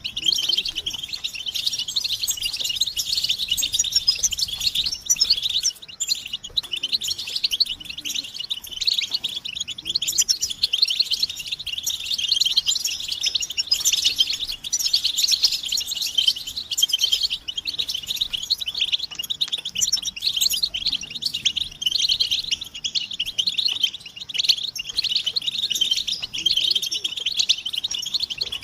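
European goldfinches chattering in a dense, unbroken run of rapid high twittering calls. These are excited, mating-readiness calls used to stir silent male goldfinches into song.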